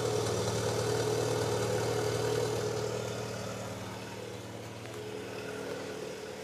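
1992 Ford Ranger engine running, heard through its exhaust with the pipe cut back so that only a little sticks into the tip, which the owner says sounds a whole lot better. Steady engine note, louder at first and easing down about three seconds in.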